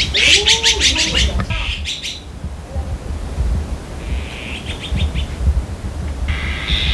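A bird chirping in several quick trills of rapid high pips, with a pause between runs.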